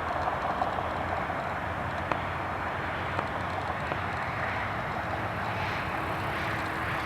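Steady hum and hiss of an Airbus A321's cabin while the airliner sits stationary with its engines idling, waiting to take off.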